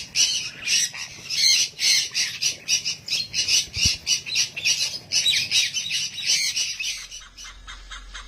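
Birds calling in rapid, harsh repeated squawks, several a second, dropping to a quieter chorus about seven seconds in.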